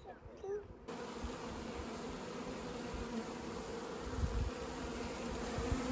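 A mass of Carniolan honeybees buzzing at close range as they are released from their shipping package into a hive: a dense, steady hum that starts suddenly about a second in. Faint bird chirps come before it, and a few low thumps come near the middle.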